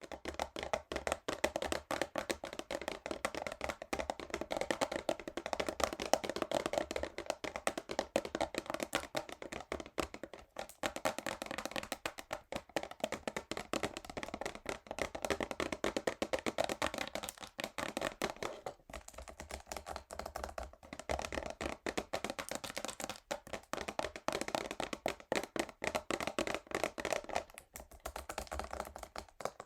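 Fingernails tapping fast and hard on a cardboard perfume box: a dense run of quick clicks with a few brief pauses.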